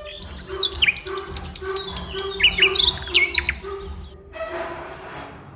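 Birds chirping and calling, a busy run of quick high chirps and short falling whistled notes that thins out over the last couple of seconds.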